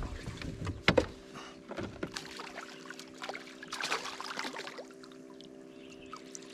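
Water splashing and trickling, with scattered knocks and clatter in a small fishing boat, over a steady low hum. A sharp knock about a second in is the loudest sound.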